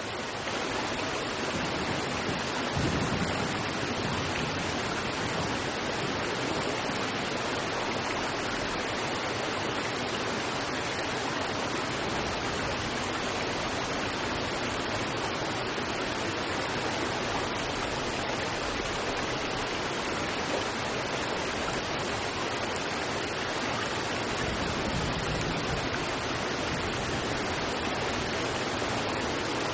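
River water rushing steadily over rocks, a continuous even wash of flowing water.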